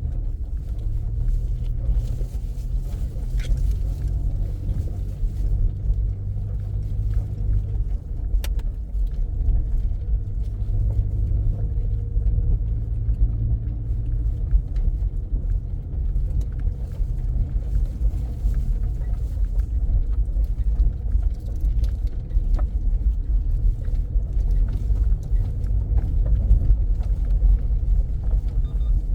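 Motor vehicle driving, its engine running with a steady low rumble; the engine tone shifts up and down a few times.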